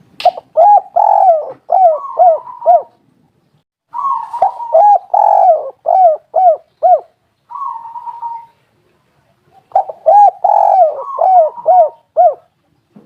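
Spotted dove cooing: three phrases, each of several quick, arching coos, with a short lower note between the second and third phrase.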